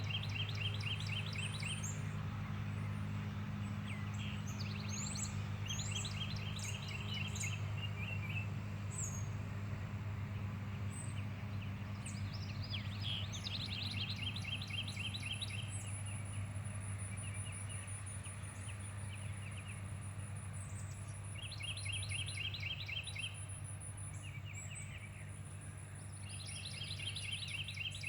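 Small songbirds chirping in quick repeated trills every few seconds, over a steady low hum. A thin, high-pitched whine comes in about halfway and keeps going with short breaks.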